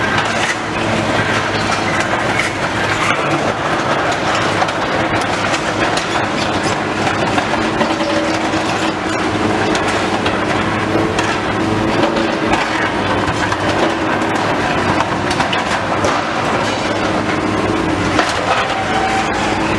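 Demolition machinery working on a building: a steady engine drone with continual cracking and crunching of broken material.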